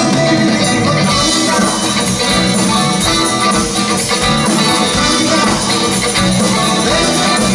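A band playing a rock song, with a steady beat and guitar.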